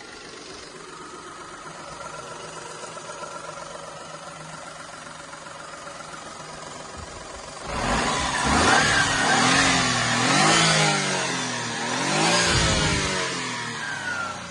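Daihatsu Terios Kid's EF-DET 660 cc turbocharged three-cylinder engine idling steadily, then revved up and down about three times from roughly eight seconds in.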